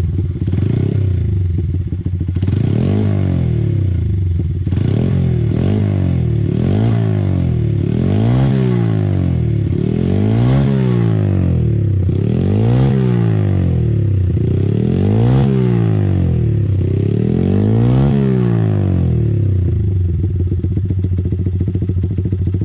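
Honda Jazz 50cc four-stroke single, fitted with a Daytona high-lift cam, Kitaco uprated valve springs and a PC20 carburettor, running through an aftermarket exhaust. It idles, then is blipped about nine times, each rev rising and falling back, and settles to idle near the end.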